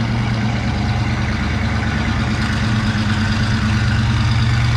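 Square-body pickup truck engine running steadily as the truck drives in, growing slightly louder as it comes closer.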